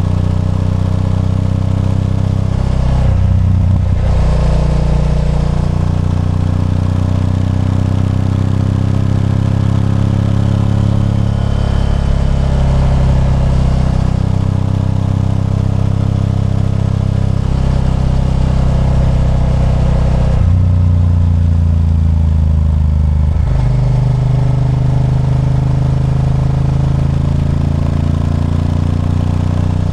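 Honda Varadero 1000's 90-degree V-twin engine running under way, loud and steady. The engine note changes with the revs about three seconds in, and again between about twenty and twenty-three seconds.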